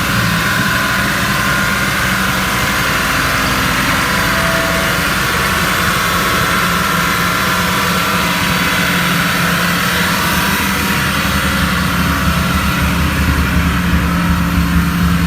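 Turbocharged Mitsubishi Evolution III four-cylinder engine in a modified Proton Satria GTi, running at a steady speed on a chassis dyno under a loud steady hiss. It grows a little louder and rougher near the end.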